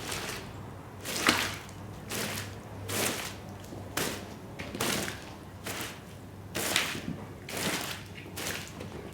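Rhythmic swishing strokes, about one a second, of a brush or broom being worked across the mud-caked shag rug; the stroke just after a second in is the loudest.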